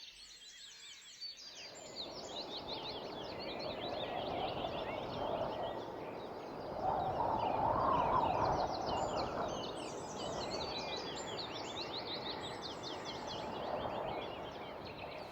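Woodland birds chirping and twittering busily, many quick high calls overlapping, over a steady rushing background noise that grows louder around the middle and then eases.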